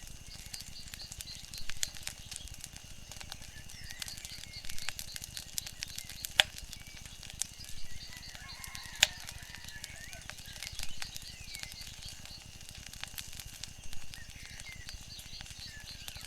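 Wood fire crackling steadily with irregular small clicks, and two sharp, louder pops about six and nine seconds in, over a soft low rushing background. Faint high chirping runs through it.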